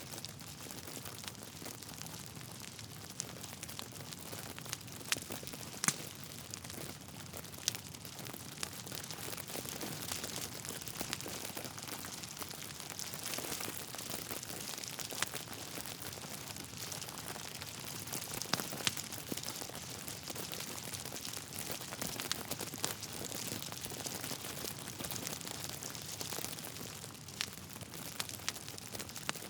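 Wood fire crackling, with a steady hiss and frequent sharp pops and snaps from the burning logs.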